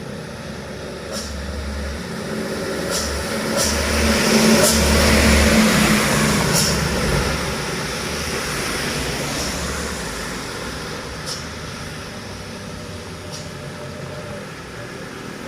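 Diesel engine of a heavily loaded truck labouring slowly up a hill, growing louder to a peak about five seconds in and then fading as it passes. A few sharp clicks stand out over it.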